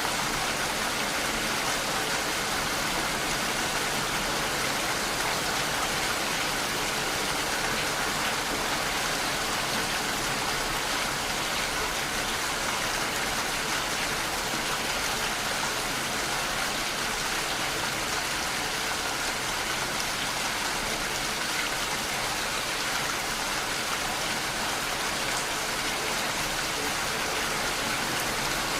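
Steady heavy rain falling, an even unbroken hiss of raindrops on surfaces.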